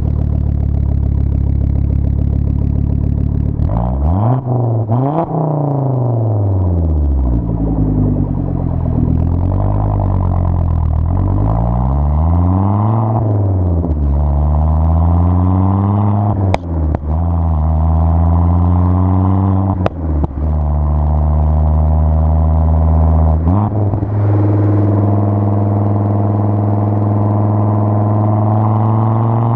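2004 Volvo S60R's turbocharged five-cylinder engine running through a custom 3-inch exhaust with resonators. It starts with a steady drone, rises and falls in pitch several times, then holds steady notes broken by a few sharp clicks in the second half.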